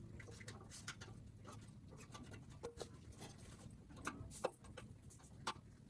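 Faint, scattered small clicks and taps of a tool working on plastic bumper parts, as the parking-sensor rings are pried out of the truck's bumper; a couple of slightly sharper ticks come near the end.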